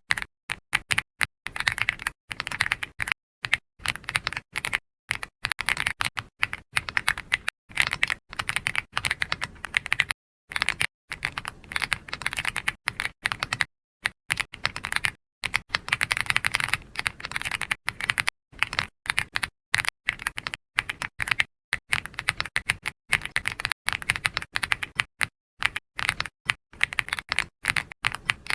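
Soft typing on a computer keyboard: keystrokes in quick runs, broken every second or so by brief pauses.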